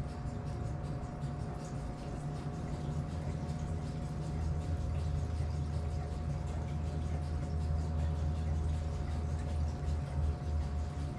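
Gasoline being poured by hand from a can into a motorcycle fuel tank, a continuous pouring and filling sound that grows louder about four seconds in, over a steady low hum.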